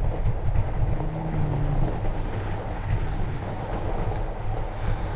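Fat bike rolling along a snowy trail: a steady low rumble of tyres and riding noise, with wind buffeting the microphone.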